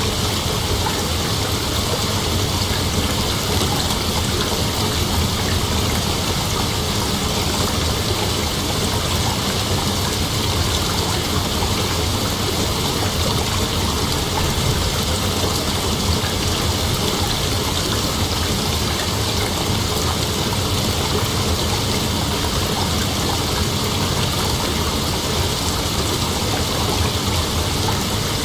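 Steady, unbroken chorus of night insects, a dense high hiss that never pauses.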